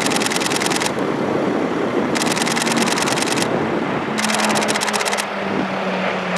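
Camera shutters firing in three quick rapid-fire bursts. Under them is the steady rushing drone of the E-2 Hawkeye's twin turboprop engines, and about two-thirds of the way through a low propeller hum comes in and sinks slightly in pitch.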